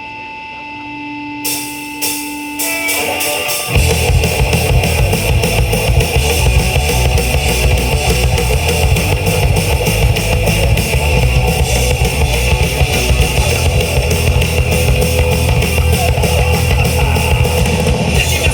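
Live rock band starting a song: steady amplifier hum, a few sharp drum hits about a second and a half in, a guitar joining just before the three-second mark, then the full band (electric guitars, bass guitar and drum kit) playing loud rock from about four seconds in.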